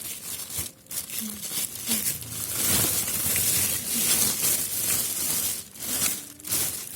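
Packaging crinkling and rustling as it is handled and pulled open during unboxing, loudest through the middle seconds.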